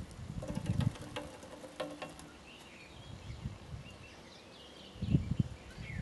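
A small bird fluttering against a window pane and tapping at the glass, fighting its own reflection: wing flaps and a few sharp taps in the first two seconds, then more flapping about five seconds in. Faint bird calls in the background.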